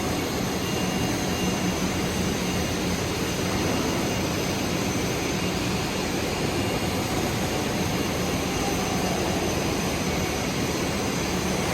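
Electric arc welding on a pipe socket joint: a steady crackling hiss from the arc, with a constant low hum underneath.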